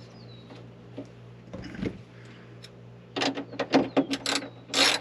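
Hand ratchet being worked in quick back-and-forth strokes, clicking as it tightens a fastener, starting about three seconds in; a single knock comes shortly before.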